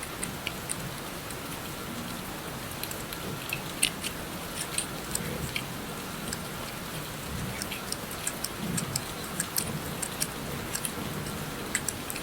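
Steady rain sound, with many small, sharp clicks and ticks scattered through it.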